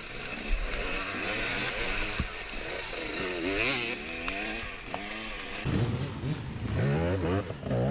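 Several dirt bike engines revving up and down as riders launch off the start line. A closer engine runs louder and steadier over the last two seconds or so.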